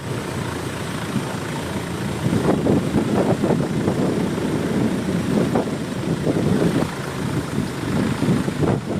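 Boat engine running steadily under way, getting louder and more uneven about two and a half seconds in.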